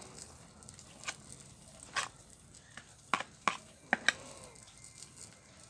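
Scattered sharp clicks and taps, about six over four seconds, with quiet between them.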